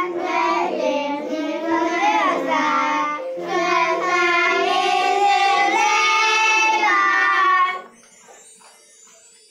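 Children singing a song over backing music; the singing and music stop abruptly about eight seconds in.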